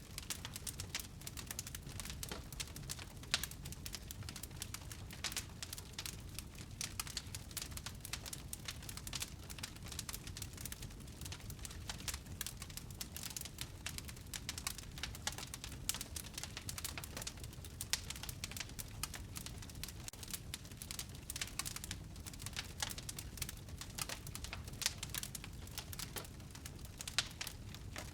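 Wood fire burning in a fireplace, crackling with many small sharp pops of varying loudness over a low steady rumble.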